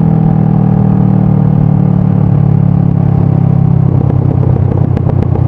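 Honda CBR500R's parallel-twin engine running through a Yoshimura full exhaust, a steady engine note that eases slightly lower toward the end.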